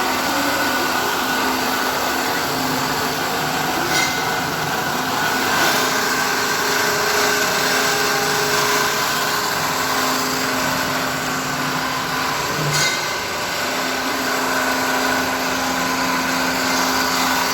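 Automatic muffler pipe cutting machine running, a steady loud machine noise with a constant hum, and a sharp click about four seconds in and again near thirteen seconds.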